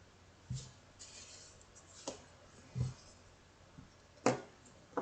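Light handling noises at a table as painting materials are worked: a few soft low knocks, a brief papery rustle about a second in, and a sharp click about four seconds in, the loudest sound.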